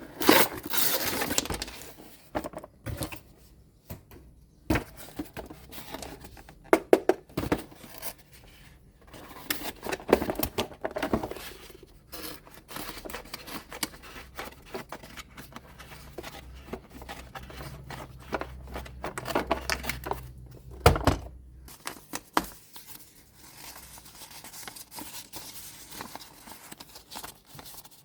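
Packaging being torn open and crinkled, with irregular clicks and knocks from toys and plastic being handled, and a low hum for a few seconds about two-thirds of the way through.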